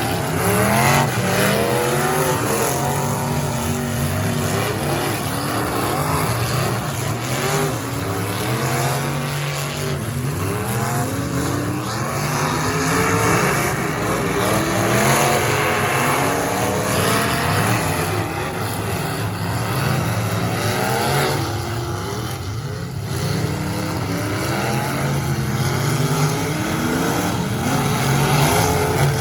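Several figure-8 race car engines running hard together, their pitch rising and falling over and over as the cars accelerate and back off around the track.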